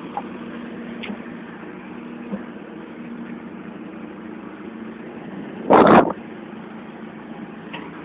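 Forklift engine running steadily at a low idle-like hum. A loud, short burst of noise lasting under half a second cuts across it a little before six seconds in.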